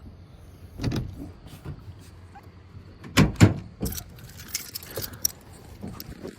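Knocks and rattles of handling in and around a vehicle, with a jangle like keys. The loudest part is a double thump a little past halfway.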